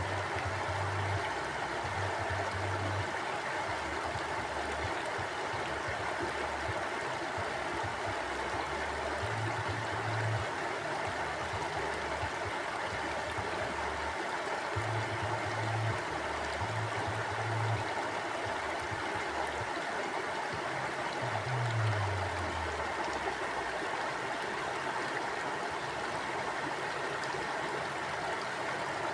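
Mountain river flowing over rocks: a steady, even rushing of water, with a low rumble that swells and fades several times.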